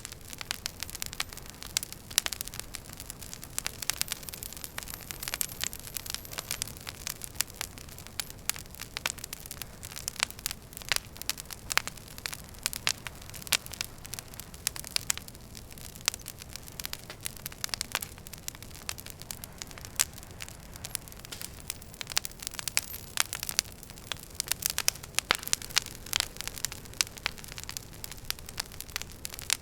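Wood fire crackling steadily in a fireplace: frequent irregular sharp pops and snaps over a soft hiss.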